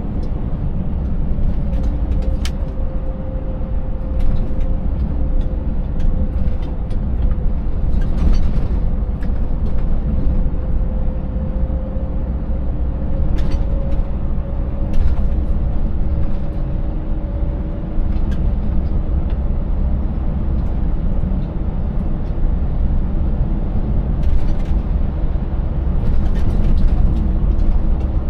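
Scania 590S truck's V8 diesel engine running steadily while driving, with a faint tone slowly drifting in pitch and scattered short knocks and rattles.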